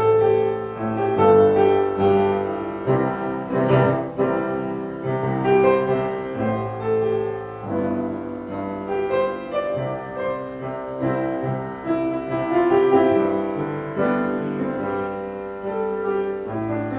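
Piano music: slow sustained chords with a melody over them.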